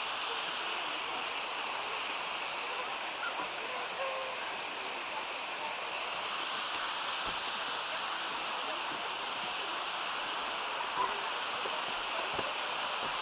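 Steady rushing of a mountain creek tumbling over waterfalls and rapids.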